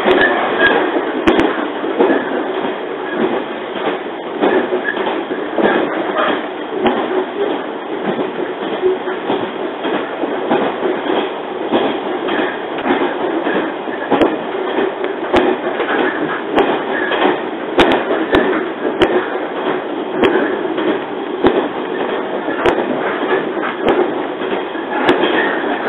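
Running noise of a JR 115 series electric train, heard from inside the passenger car: a steady rumble with scattered sharp clicks.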